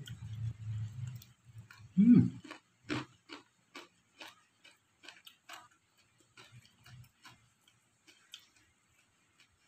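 Wet mouth clicks and smacks of close-miked chewing, about two to three a second, growing fainter toward the end, with one short, louder low sound that rises in pitch about two seconds in.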